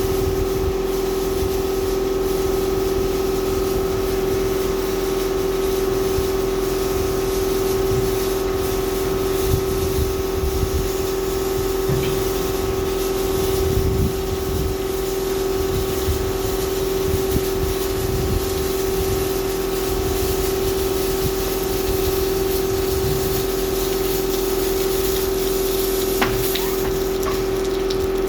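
Washtec SoftCare Pro rollover car wash running: a steady pump hum with water spraying over the car.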